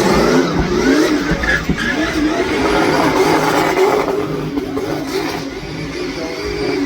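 Car engine revving hard, its pitch rising and falling as it is driven up the hill, a little quieter late on.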